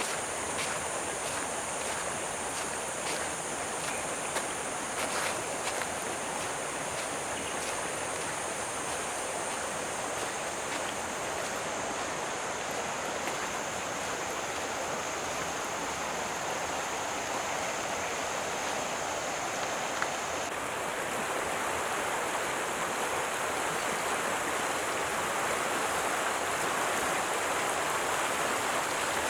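A stream's water rushing steadily, growing slightly louder in the last third, under a steady high insect drone that partly drops out about two-thirds of the way through.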